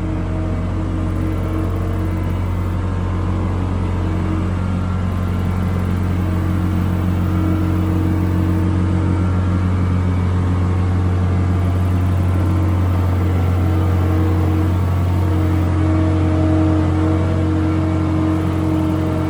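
Skid loader's engine running steadily, with a strong low hum.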